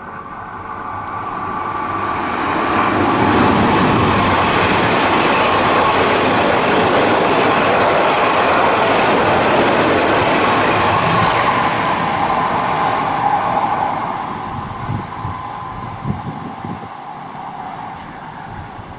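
Odakyu 5000-series electric train passing through the station at speed. The sound builds over the first few seconds, stays loud for about ten seconds and then fades, with separate wheel clacks near the end.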